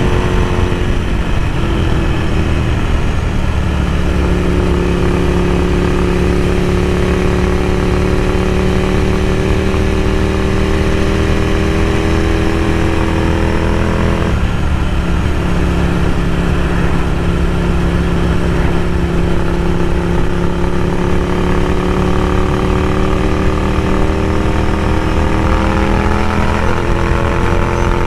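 Ducati Scrambler Café Racer's air-cooled L-twin through a Vance & Hines slip-on exhaust, under way on the road. The engine drops in pitch near the start, pulls slowly up through a gear, drops again at an upshift about halfway through, then climbs once more.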